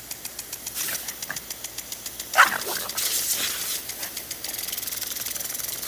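A dog gives one short bark about two and a half seconds in, over a fast, even ticking in the background.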